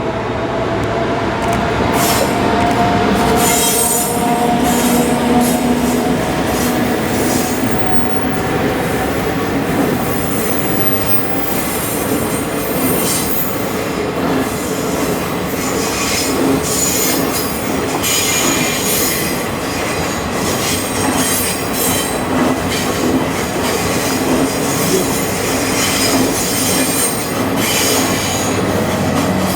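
The Hokutosei sleeper, a locomotive-hauled train of passenger cars, passing close by: a loud, steady rumble of wheels on rail with a rapid, continuous clatter.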